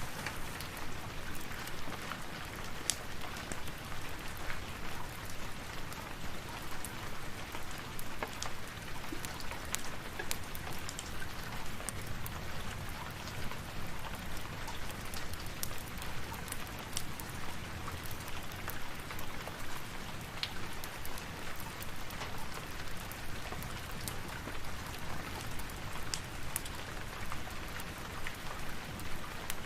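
Steady rain, with scattered sharp ticks throughout.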